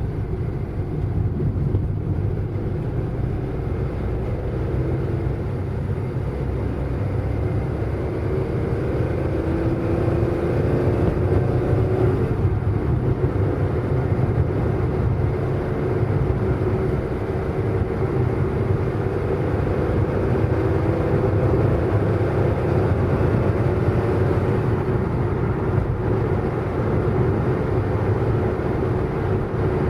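Car driving, a steady low rumble of engine and road noise with a faint engine note that climbs slowly and drops back about twelve seconds in, as at a gear change.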